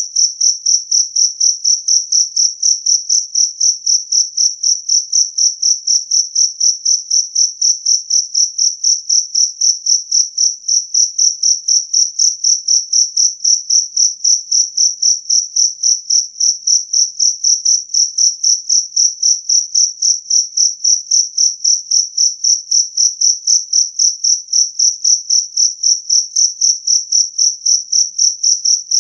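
Jangkrik kalung, the two-spotted field cricket, singing loud and clear: a high, pure chirp repeated at a steady, even rhythm of about three chirps a second.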